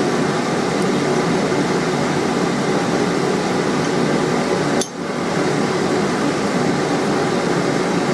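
A forge running, a steady even rushing noise with a faint hum in it, which dips briefly about five seconds in.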